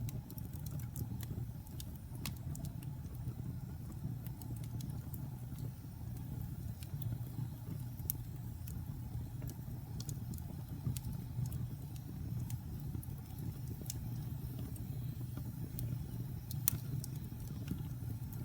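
Log fire burning in a fireplace: a steady low rumble of the flames with irregular sharp crackles and pops of the burning wood, one louder pop near the end.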